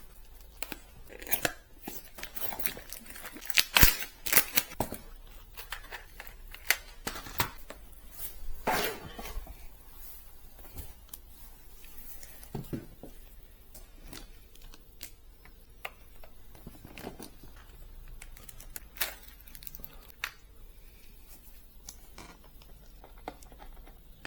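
Hands handling computer parts and packaging: scattered clicks and knocks with bouts of plastic and paper crinkling and tearing, busiest in the first half.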